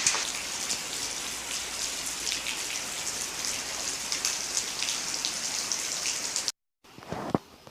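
Hail and rain falling hard: a dense hiss full of many small sharp impacts of hailstones on hard surfaces. It cuts off abruptly about six and a half seconds in, followed by a much quieter stretch with a single thump.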